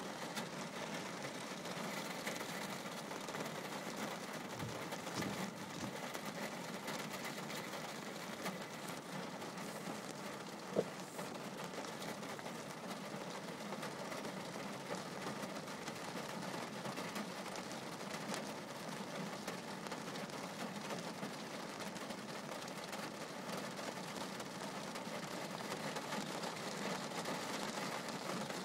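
Steady rain drumming on a car's windshield and roof, heard from inside the car, with one sharp click near the middle.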